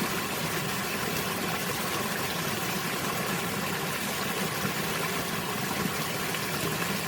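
Steady rushing water, an even wash of noise with no let-up.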